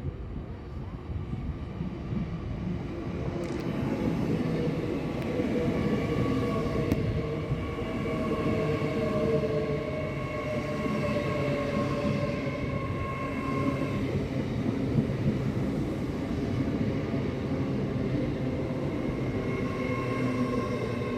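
A train running close by: a steady rumble with several held whining tones from its engine or traction motors, growing louder over the first few seconds and then holding.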